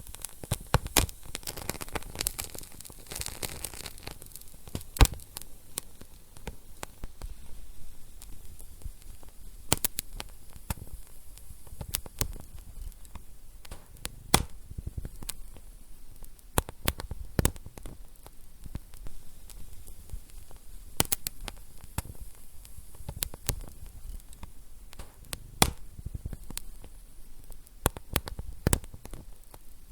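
Wood fire burning in a fireplace, with irregular sharp crackles and pops over a soft hiss.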